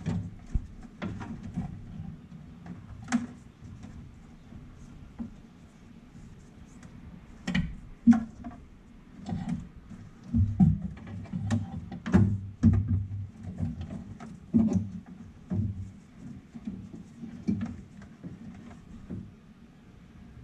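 Irregular clicks, knocks and clatter of hand work on car engine-bay parts and wiring, busiest and loudest through the middle stretch.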